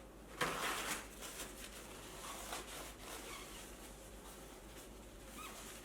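A single short spray about half a second in, wetting the tyre bead to ease fitting it onto the rim, followed by faint rubbing and handling of the tyre.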